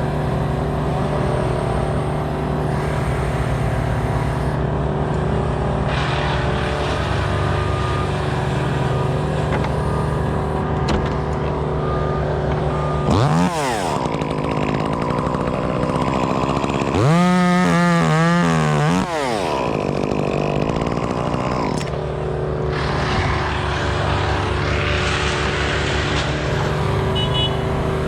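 A steady engine running throughout, with a second small engine revved sharply twice near the middle: a quick blip, then a longer rev held for about two seconds before it drops back.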